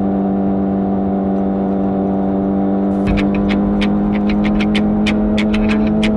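Honda CBR600RR's inline-four engine through its stock exhaust, running at a steady engine speed with its pitch held level. A run of sharp ticks comes in about halfway through.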